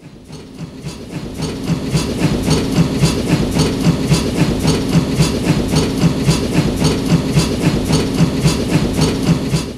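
Train sound effect: a steady rhythmic chugging of about three beats a second that fades in and then cuts off suddenly.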